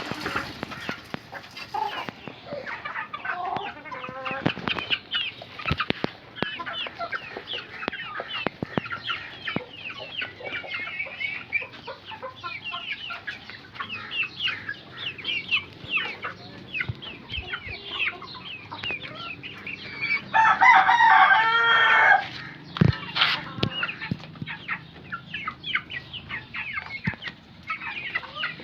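A mixed flock of Australorp, Sussex and Lohmann Brown chickens clucking and chirping steadily. About twenty seconds in, a rooster crows loudly for a second or two.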